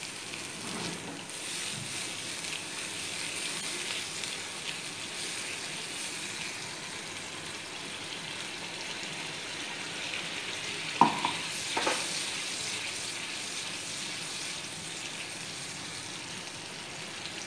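Onion-tomato masala sizzling steadily in mustard oil in a nonstick pan as water is stirred into it with a spoon. About two-thirds of the way through come two short knocks of the spoon against the pan.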